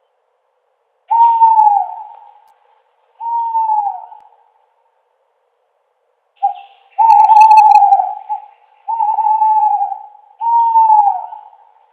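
An owl hooting: a series of about six hoots, each about a second long, with the pitch dropping at the end. The loudest, about seven seconds in, is longer and rougher than the others.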